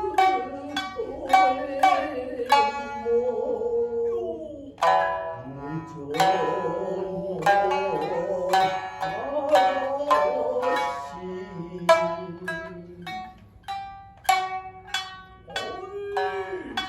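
Shamisen playing an instrumental passage of Shinnai-bushi: a run of sharply plucked notes that ring and decay, with a higher-tuned second shamisen (uwajōshi) playing over the main one.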